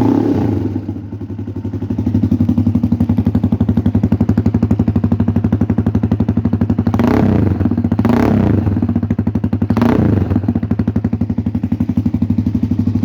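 DM250X motorcycle engine idling through an aftermarket SC exhaust, with a steady, rapid pulsing beat. The throttle is blipped three times in quick succession in the second half, each rev rising and falling back to idle.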